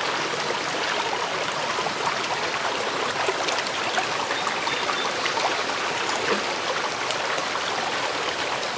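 Creek water running steadily, an even rushing of shallow flowing water.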